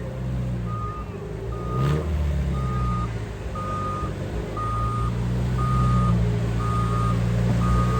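Reverse alarm on a heavy vehicle beeping steadily about once a second as it backs up, working to pull stuck derby cars apart, with its engine running underneath.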